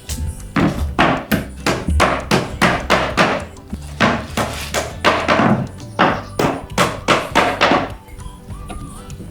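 A rapid series of sharp knocks, about three a second, that stops about eight seconds in, with background music underneath.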